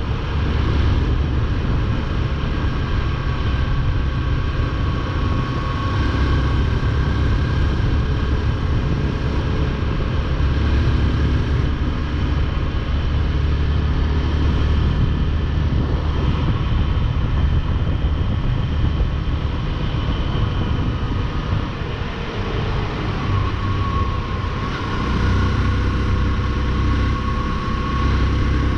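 Motorcycle engine running steadily at cruising speed, with a heavy low rumble under a thin steady engine tone. The sound eases off briefly about three quarters of the way through, then picks up again.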